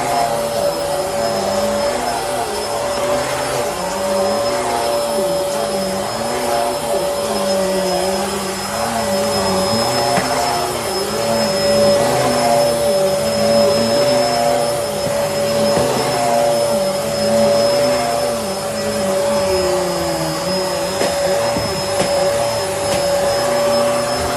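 Bissell Helix vacuum cleaner running, a steady motor whine over a rushing hiss, with a lower note that rises and falls about once a second.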